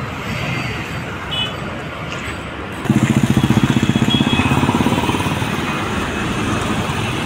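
Road traffic noise, then about three seconds in a motor vehicle's engine comes in loud and close with a low, rapid throbbing that slowly eases off.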